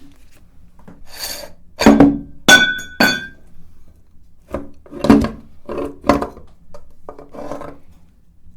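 A run of irregular knocks and clinks, loudest about two to three seconds in, where a couple of them ring on briefly.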